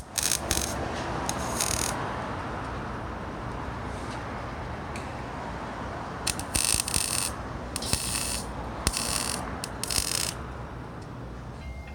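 Aerosol can of high-heat paint sprayed in short bursts, several hissing sprays of about half a second to a second each, most of them bunched together past the middle.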